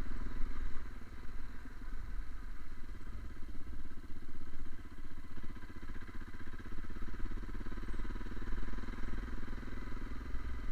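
Fiat Strada pickup's engine running steadily as it drives, with a constant low rumble.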